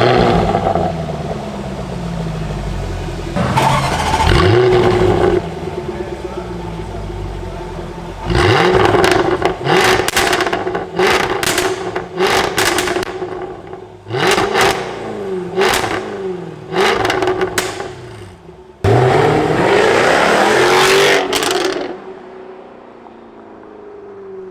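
Jaguar F-Type R Coupe's supercharged V8 being revved hard in a series of blips, several in quick succession, with a longer high rev about 19 seconds in before it falls back to a low idle.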